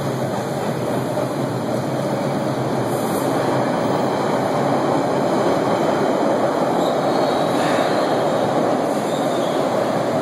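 Amtrak Northeast Regional train hauled by a GE P42 diesel locomotive passing close by: a loud, steady rumble of wheels on rails that builds over the first second or two and then holds. Faint high wheel squeals come in near the end.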